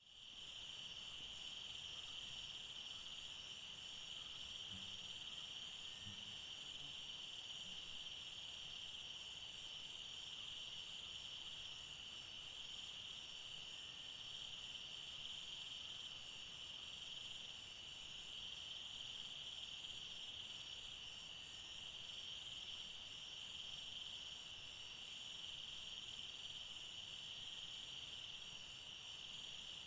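A steady chorus of insects: a continuous high buzzing drone with a faint pulsing shimmer above it.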